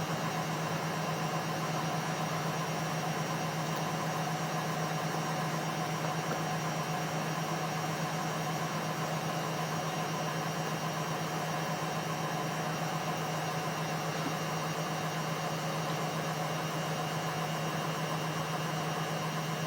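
Indesit WISN 101 washing machine running in its rinse cycle: a steady, unchanging hum with a constant low tone.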